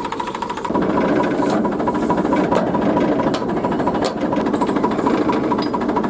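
Engine running with a fast, even beat, growing louder under a second in and then holding steady.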